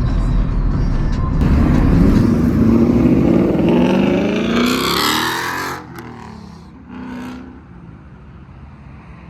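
A car engine accelerating hard, its pitch rising steadily for about four seconds before it cuts off suddenly; a shorter, quieter burst of engine sound follows about seven seconds in.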